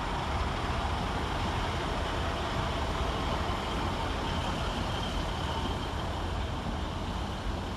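Northern Class 150 Sprinter diesel multiple unit departing, its underfloor diesel engines running with a steady, even rumble.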